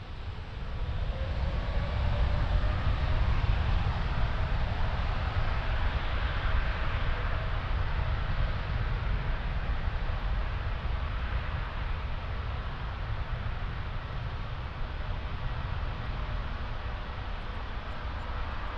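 Boeing 787-8 jet engines at takeoff power: a deep rumble and roar that swells about a second in, then slowly fades as the airliner moves away.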